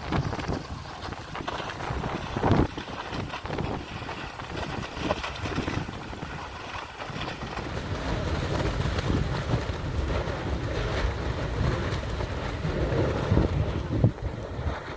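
Wind buffeting the microphone as a steady low rumble that grows stronger in the second half, with a brief thump about two and a half seconds in and another near the end.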